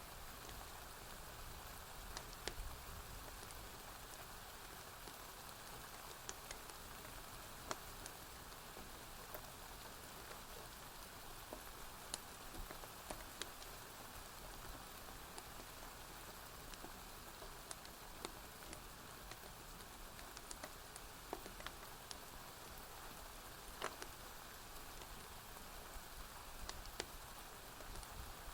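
Steady rain falling, an even hiss, with scattered sharp clicks and pops every second or two.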